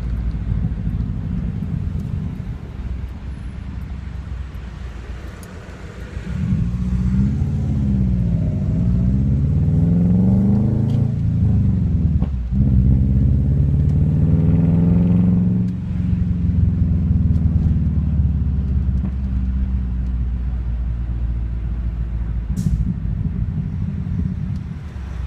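Subaru Outback flat-four engine with unequal-length headers and a muffler-delete cat-back exhaust (no muffler or resonator), giving a loud, rumbling exhaust note. It drones steadily, then from about six seconds in it accelerates hard with a rising pitch, cuts out briefly for a gear change, climbs again, and drops back off the throttle to a steady cruise.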